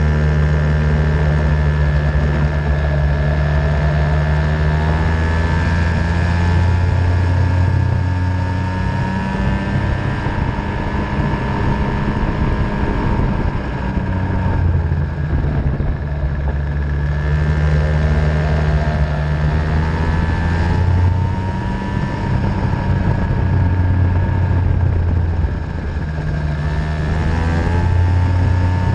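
50cc Venom racing engine running under load, its pitch climbing and dropping back every several seconds as it accelerates and eases off.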